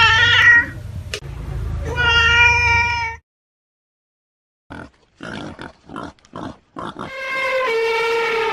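Animal calls: two pitched calls in the first three seconds, a brief silence, then a quick run of short calls and one long drawn-out call near the end.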